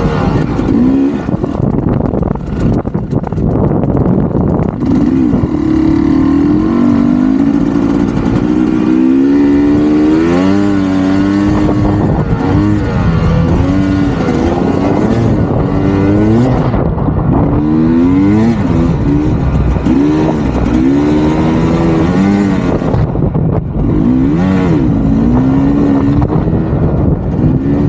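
Dirt bike engine being ridden hard, revving up and falling back again and again, its pitch climbing and dropping with the throttle.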